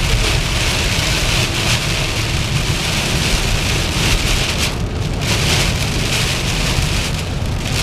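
Heavy rain pouring onto a moving car, heard from inside the cabin as a loud, steady hiss with road rumble beneath.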